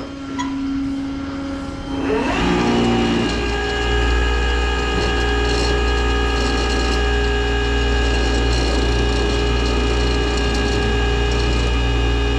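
Tow truck's engine and hydraulic drive winding up about two seconds in, then running steadily at raised speed, a loud even hum with a low drone, while the winch or bed is worked.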